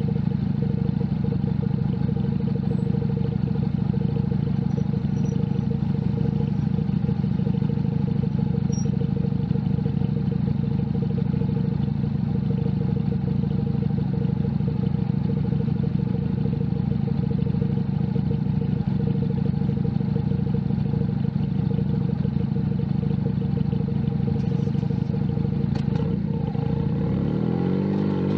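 Junak M11 Cafe's 125 cc single-cylinder engine running at a steady speed under way, with wind and road noise. Near the end the engine note swings down and up as the revs change.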